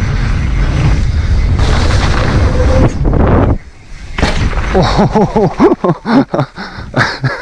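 Mountain bike ride down a trail drop-in, heard on a helmet or bike camera: wind buffeting the microphone and tyres rolling over dirt make a steady rumble. The rumble cuts off suddenly about three and a half seconds in, and sharp knocks and thuds follow from the bike over the rough ground.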